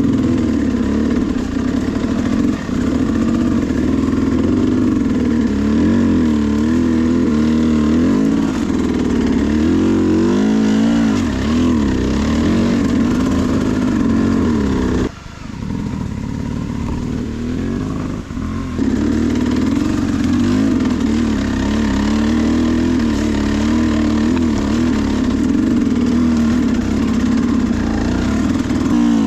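Sherco SE300 two-stroke enduro motorcycle engine revving up and down in constant throttle changes. About halfway the revs drop off sharply for a moment, then the engine picks up again.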